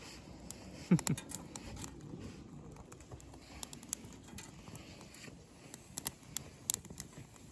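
Small twigs crackling and snapping, with scattered sharp pops. The loudest pop comes about a second in, and several more follow near the end.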